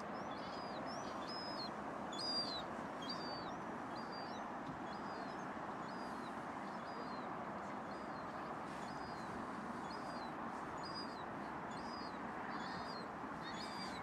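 A bird giving short, high calls over and over, roughly one a second, over steady background noise.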